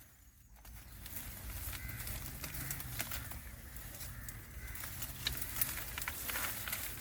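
Faint outdoor ambience with scattered light clicks and rustles over a low steady rumble.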